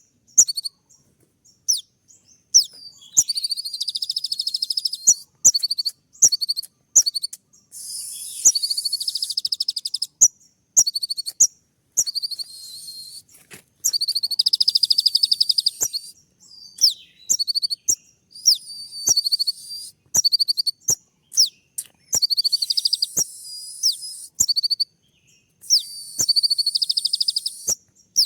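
Kolibri ninja sunbird singing: sharp, high chips in quick series broken every few seconds by dense, buzzy rapid-fire trills about one to two seconds long, the fast 'tembak' song style.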